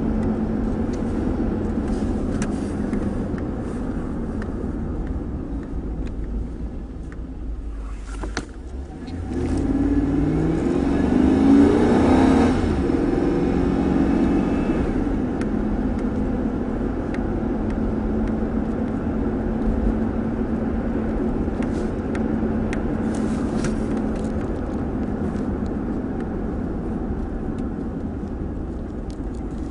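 Truck engine and road noise while driving: a steady cruise, a brief easing off about eight seconds in, then the engine revving up under acceleration for a few seconds before settling back to a steady cruise.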